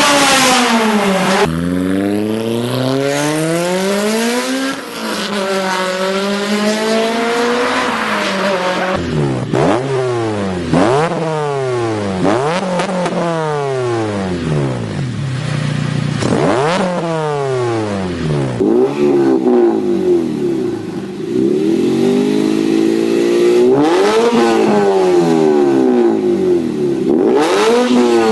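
Honda Integra Type R (DC5) K20A four-cylinder engine heard through its exhaust, revved over and over, the pitch climbing and falling back. In the middle comes a run of quick sharp blips about once a second. The sound changes abruptly twice, as between separate takes.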